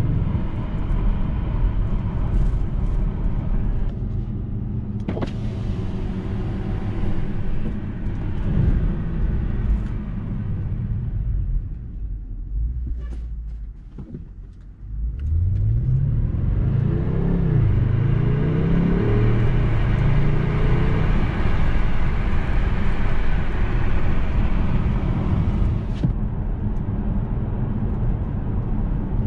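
Audi S6 C7's 4.0 TFSI twin-turbo V8 heard from inside the cabin. The car slows to a stop and the engine settles to a quiet idle about halfway through. It then pulls away, engine pitch rising and dropping through several quick upshifts, before settling to a steady cruise with road noise.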